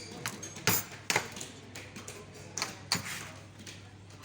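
Irregular sharp knocks and clinks of utensils against dishes, four or five strikes spread over a few seconds.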